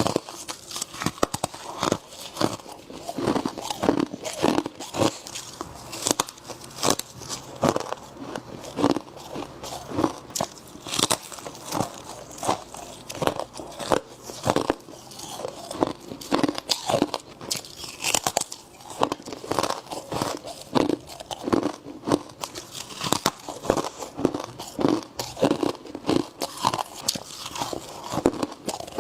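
Humidifier frost being bitten and chewed close to the microphone: a fast, irregular run of crisp crunches, several a second.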